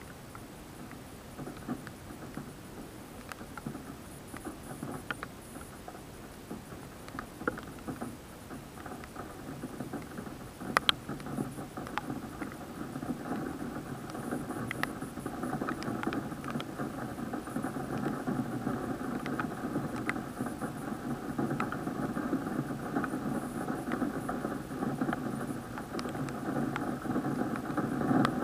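Rain heard from inside an action camera's plastic waterproof housing: a muffled rain noise with scattered sharp ticks of drops striking the case. The rain grows steadily louder from about ten seconds in.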